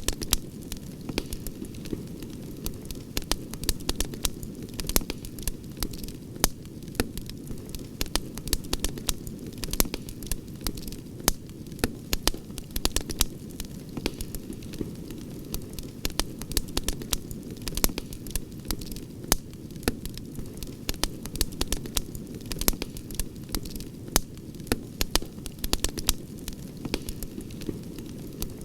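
Campfire crackling: frequent irregular sharp snaps over a steady low rush of the burning fire.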